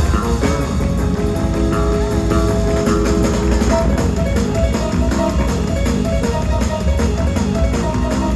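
Live gospel band playing an instrumental passage, with electric guitar, bass and drum kit keeping a steady beat under held keyboard or guitar notes.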